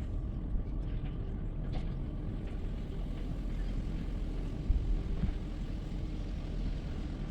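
Steady low rumble of a Toyota 4Runner heard from inside its cabin as it pulls slowly into an automatic car wash, with one short thump about two-thirds of the way through.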